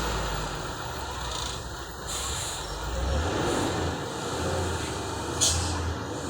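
Heavy dump truck engine running with a low, uneven rumble, and one short hiss about five seconds in.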